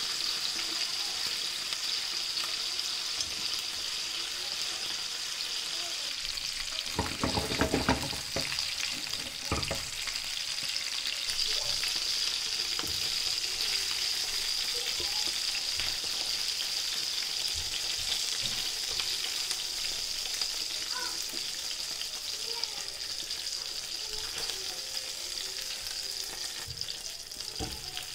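Chicken wings frying in oil in a pan, a steady sizzle. About seven seconds in comes a short cluster of knocks, with another a little later, as the wings are turned with plastic tongs.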